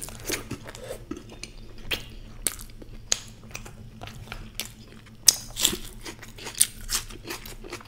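A person chewing and biting food close to the microphone, with a run of sharp crunches, the loudest about five to seven seconds in.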